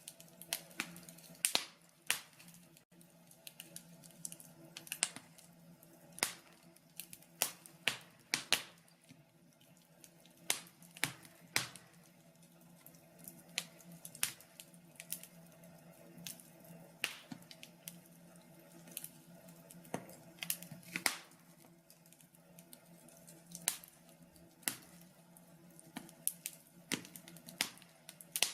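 Wood logs burning in a log burner, crackling with irregular sharp pops and snaps, sometimes several in quick succession, over a faint steady hum.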